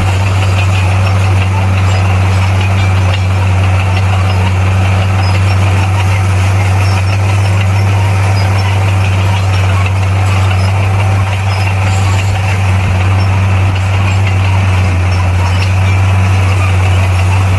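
Bulldozer's diesel engine running steadily, a constant low drone that holds level throughout.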